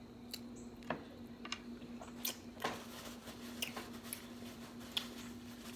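Faint, scattered small clicks and taps of objects being handled, about eight over a few seconds, over a steady low hum.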